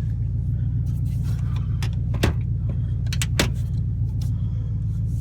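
2000 Chevy Silverado's engine idling through glasspack dual exhaust with the Y-pipe cut out: a steady low rumble. A few sharp clicks come through about two and three seconds in.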